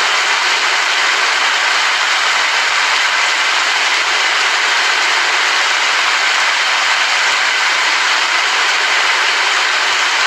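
Steady rain falling as an even, unbroken hiss, with no thunder or other separate sounds.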